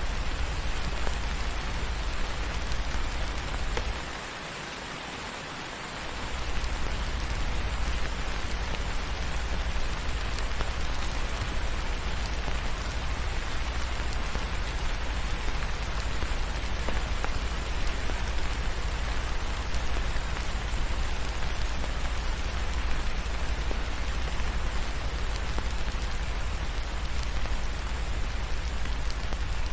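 Steady heavy rain with a deep rumble beneath it; the rumble drops out for about two seconds, starting about four seconds in, then returns.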